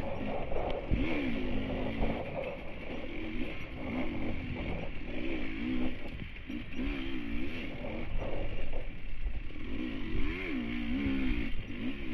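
Enduro dirt bike engine revving in short blips, its pitch rising and falling again and again as the throttle is worked on and off, with scraping and clattering from the bike on the trail.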